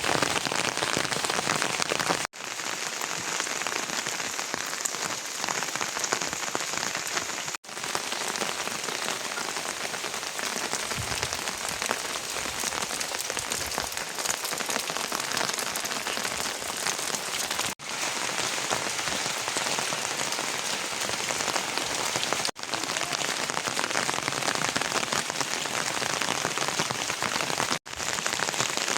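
Steady rain falling and pattering on surfaces, an even hiss that breaks off for a split second about five times and starts up again at once, as from joins between shots.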